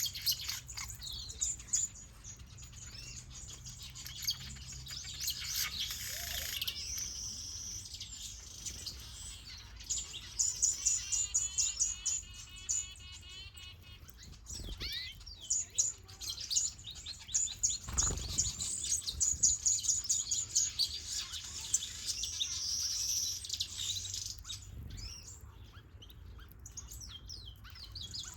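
Mixed aviary finches and softbills chirping and twittering, many quick high calls overlapping, with a fast repeated warble a little before the middle. A low steady hum runs underneath, and there is one brief low thump past the middle.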